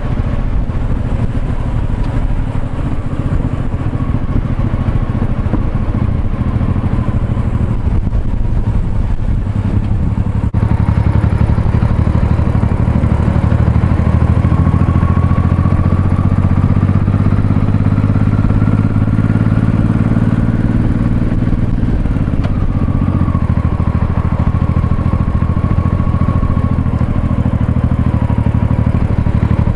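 Honda Shadow V-twin motorcycle engine running under way, its note climbing through the middle and dropping sharply about two-thirds in.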